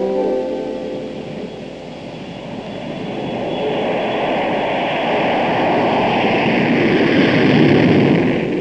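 Jet aircraft engines running, a rushing noise that swells steadily louder and cuts off abruptly near the end.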